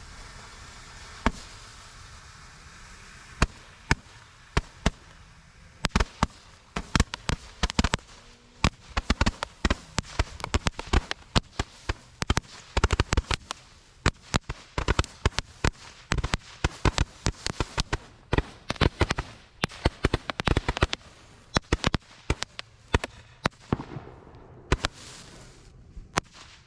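A long string of firecrackers going off: dozens of sharp, irregular bangs, often several a second, for about twenty seconds, thinning out near the end. A faint hiss comes just before the first cracks.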